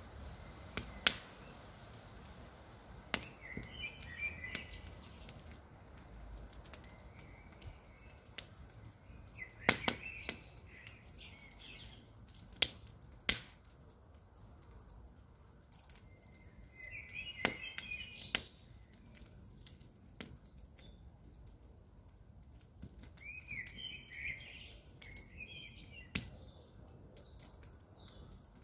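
Campfire crackling: sharp wood pops every few seconds, a few of them loud, over a low steady hiss. A bird chirps in short bursts in the background several times.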